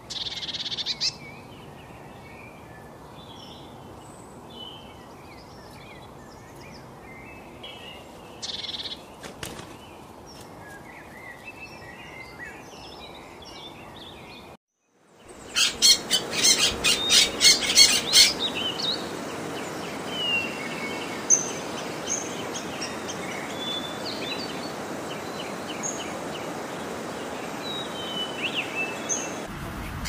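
Birds chirping and calling over a steady outdoor hiss. After a brief dropout about halfway, a burst of loud, sharp, rapidly repeated calls lasts a few seconds, then scattered high chirps continue.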